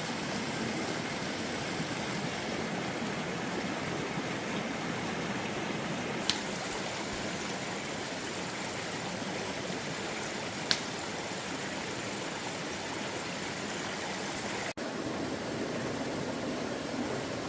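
Steady rush of water, with two sharp clicks, the first about six seconds in and the second about five seconds later. The sound drops out for an instant near the end.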